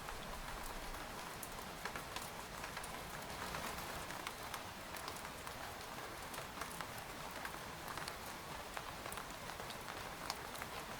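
Rain falling on a tent: a steady hiss of rainfall with many scattered sharp taps of single drops hitting the fabric.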